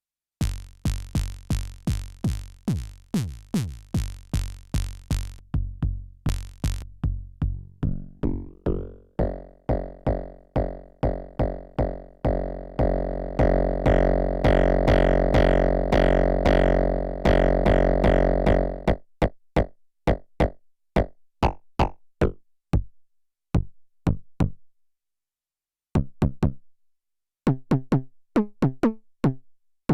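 Elektron Syntakt's analog BD Plastic bass-drum engine played dry, without effects: a steady run of short kick hits, about three a second. From about eight seconds the hits grow into longer, louder pitched tones, then turn back into sparser short hits after a brief pause near the end.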